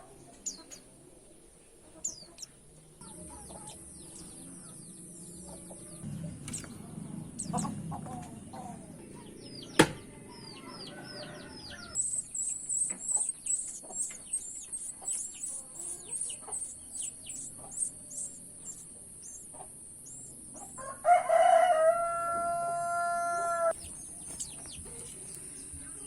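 Many short, high, thin white-eye chirps, each falling in pitch, coming thicker from about halfway through. Near the end a rooster crows once, for about two and a half seconds, and a single sharp click sounds about ten seconds in.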